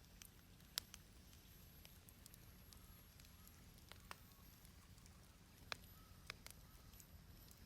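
Wood fire burning in a fire pit, faint, with a few sharp crackles and pops at irregular intervals over a low steady hum.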